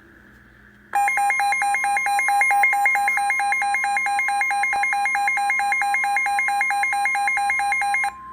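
NOAA Weather Radio receiver sounding its warning alert: a loud steady tone near 1 kHz with a rapid two-pitch warbling alarm on top. It starts suddenly about a second in and the warble cuts off near the end. This is the alert that comes before a severe thunderstorm warning message.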